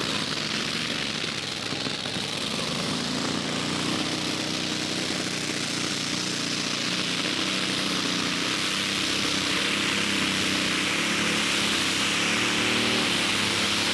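Competition pulling tractor's engine running at high revs under full load during a pull, a steady loud engine note with a heavy hiss of noise over it.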